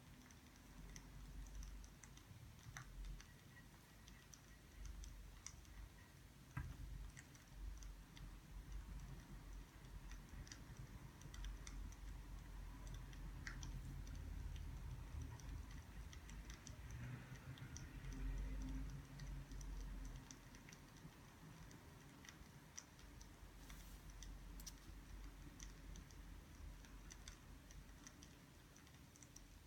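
Faint, irregular small clicks and ticks over a low rumble, louder about two-thirds of the way through.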